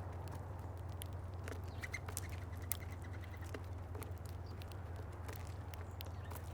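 Small birds feeding at a seed feeder: irregular sharp taps and clicks of pecking and seed handling, with a brief quick run of chirps about two seconds in. A steady low hum lies underneath.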